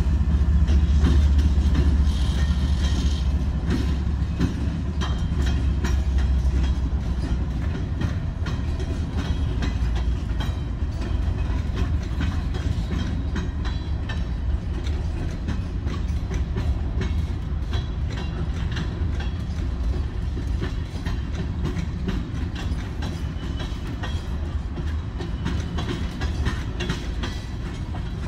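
Florida East Coast Railway freight train passing. The low rumble of its diesel locomotives fades over the first several seconds, then the steady clatter and clicking of freight-car wheels over the rails goes on.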